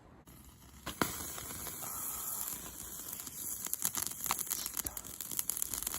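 Small wood campfire crackling and hissing, starting about a second in, with sharp pops now and then.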